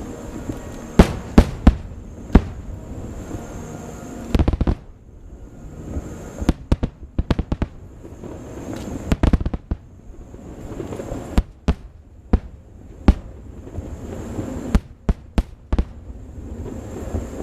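Aerial fireworks bursting: many sharp bangs at irregular intervals, some in quick clusters, with rumbling between them. The loudest bangs come about a second in.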